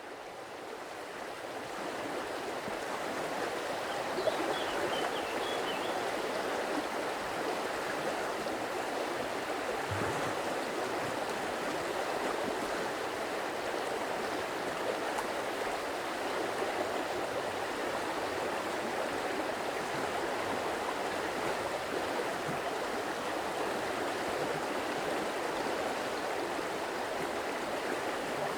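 Water in a stream flowing and babbling steadily, fading in from silence over the first couple of seconds.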